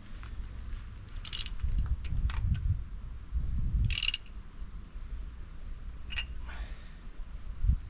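Metal tool clinks and clicks from a socket wrench working a spark plug on a boat engine: a few separate sharp clinks, one with a short metallic ring about six seconds in, over low rumbling handling noise.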